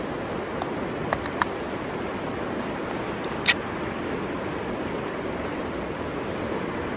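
River water rushing steadily, with a few sharp snaps over it, the loudest about three and a half seconds in.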